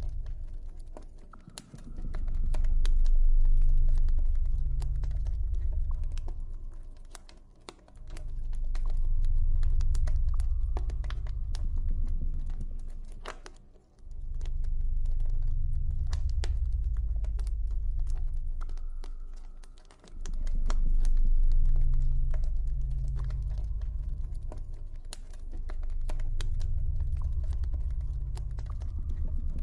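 Campfire crackling with many sharp, irregular pops over a deep, low ambient drone that swells and fades roughly every six seconds, with a faint high tone drifting in and out.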